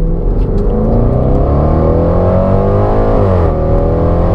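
2020 Range Rover Velar SVAutobiography's supercharged 5.0-litre V8 at full-throttle acceleration, heard from inside the cabin. The engine note climbs steadily, drops sharply at an upshift about three seconds in, then starts climbing again.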